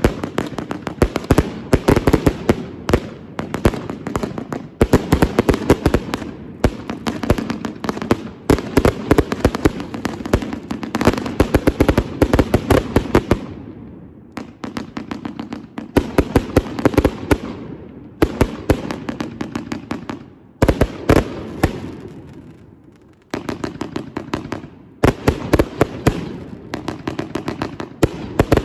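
Consumer aerial fireworks bursting overhead in rapid volleys of bangs and crackling, with two brief lulls partway through.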